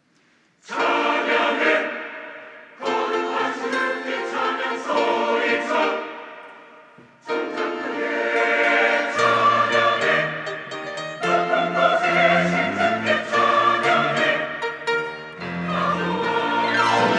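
Church choir singing an anthem in full chords. Its phrases enter suddenly, the first after a second of near silence, with further entries about three and seven seconds in, and low bass notes join about halfway through.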